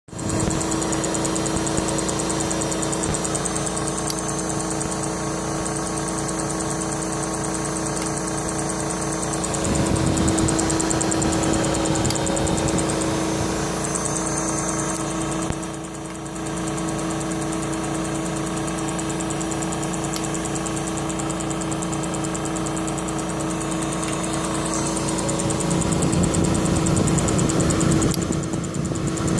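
Eco Physics CLD 60 chemiluminescence NOx analyzer running in its NO, NO2 and NOx modes, making a cricket-like chirping over a steady hum. The sound shifts and gets louder about ten seconds in, dips briefly around sixteen seconds, and rises again near the end.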